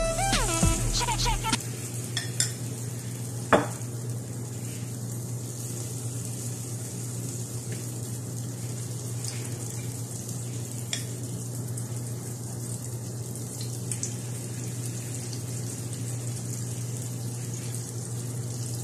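Cabbage-and-egg batter sizzling steadily in hot oil in a nonstick grill pan, with a few sharp clinks of a spoon against the glass bowl and pan as more batter is spooned in. Background music fades out in the first second and a half.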